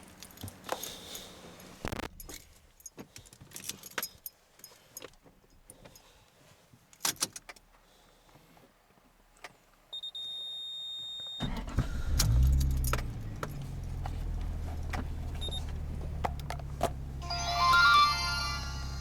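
Toyota Chaser JZX100's straight-six engine being started: a string of clicks and knocks and a short beep, then the starter cranks and the engine catches within about a second, revs briefly and settles into a steady idle. Near the end a brief burst of higher, wavering tones sounds over the idle.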